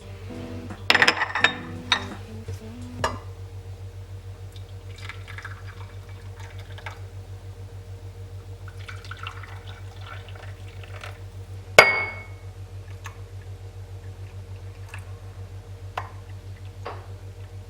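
Kitchen work: liquid being poured and dishware clinking, with a few sharp knocks early on and one loud ringing clink of glass about twelve seconds in, over a steady low hum.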